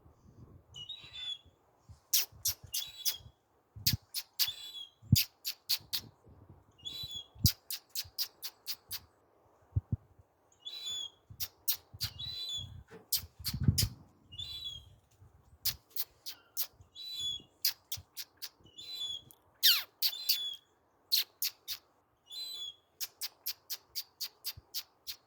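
Seagull giving short high-pitched calls over and over, mixed with quick runs of sharp clicks in groups of three or four.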